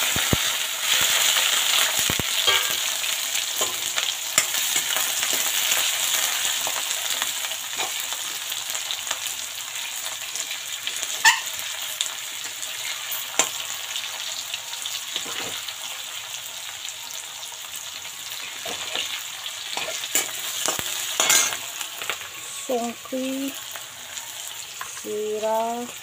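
Chopped green chillies, tomato and onion hitting hot oil in a metal kadhai, sizzling loudly at once and then settling to a quieter, steady frying hiss. A metal ladle stirs and knocks against the pan a few times.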